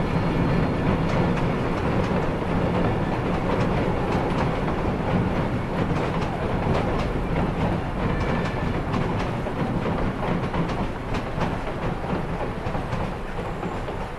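Narrow-gauge Durango & Silverton passenger cars rolling across a steel truss bridge: a steady rumble with the clickety-clack of wheels over rail joints. It eases off toward the end as the last car clears the bridge.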